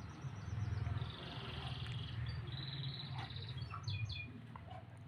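Domestic canary singing fast high trills and chirp runs, over a steady low rumble.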